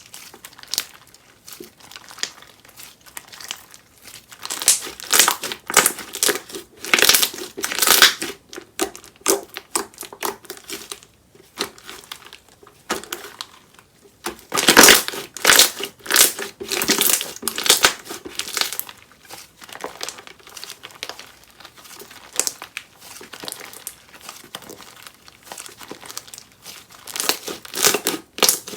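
Hands squeezing, pressing and stretching a bead-filled slime, giving dense crackling and popping. It comes in louder spells, with a quieter stretch about halfway through.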